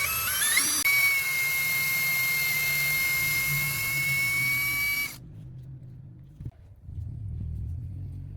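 Small electric power-tool motor spinning up with a rising high-pitched whine, running at steady speed, then cutting off sharply about five seconds in.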